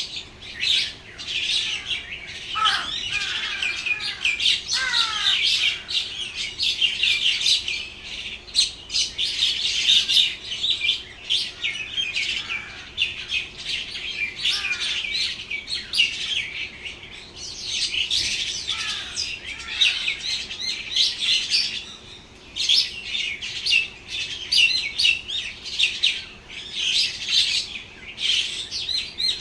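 Many small birds chirping at once, dense overlapping high chirps without a break, with a few downward-sliding calls in the first few seconds.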